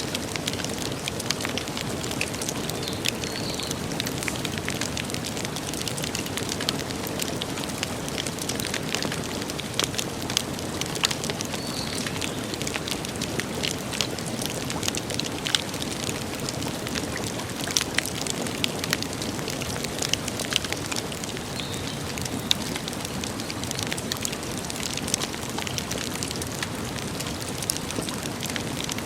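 Wood campfire crackling, with frequent sharp pops and snaps over a steady hiss.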